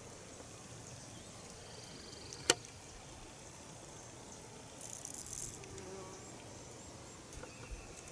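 Quiet outdoor ambience with faint insect sounds; a single sharp click about two and a half seconds in, and a short high-pitched buzz around five seconds in.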